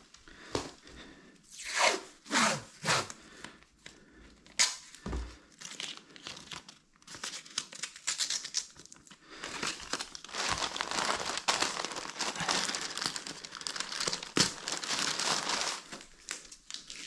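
Crinkling and tearing of sheet material being handled, in irregular bursts, with a few short downward-sweeping rips early on and continuous rustling through the second half.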